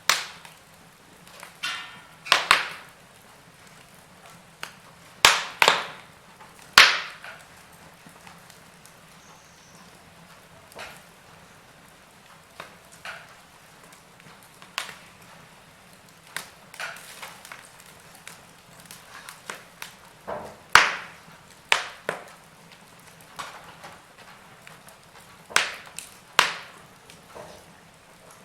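Wood fire crackling in a fireplace: sharp pops and snaps at irregular intervals, a handful of them loud, over a faint steady hiss.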